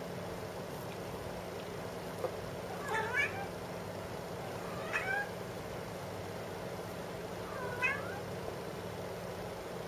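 Norwegian Forest Cat meowing three times, about two seconds apart, each meow a short call that rises and falls in pitch, over a steady low hum.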